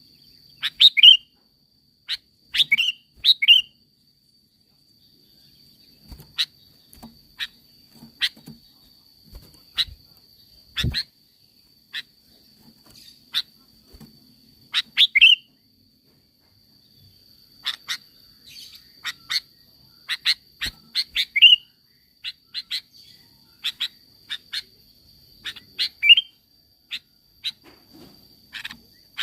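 Sooty-headed bulbul (kutilang) calling in loose bursts of short sharp chirps, the loudest being quick falling whistled notes, with pauses of a few seconds between groups. A faint steady high tone runs underneath.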